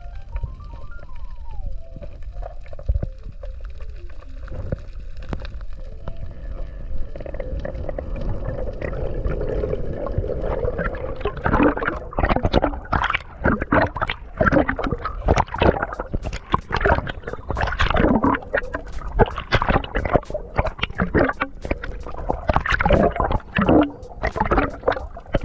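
Water gurgling and sloshing against the camera over a low rumble. About halfway through, it turns into a rapid, irregular run of splashes.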